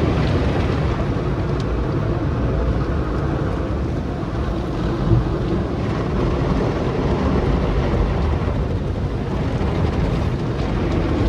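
Automatic car-wash tunnel equipment running: a steady, loud rumbling wash noise, with one brief knock about five seconds in.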